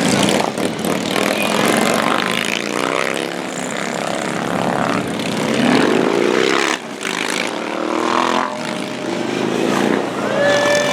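Helicopter flying overhead, its rotor and engine noise shifting in pitch as it passes. A horn sounds near the end.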